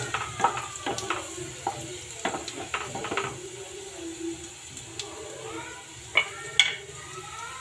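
Chopped garlic and cumin seeds frying in hot oil in a kadhai, crackling with quick small pops, thick for the first few seconds and sparser after, with two louder sharp pops a little past the middle.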